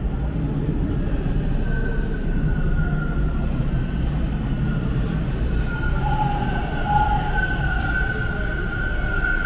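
Toronto subway train on Line 2 running through the station, a steady rumble with a faint high wheel or motor whine that grows stronger in the second half.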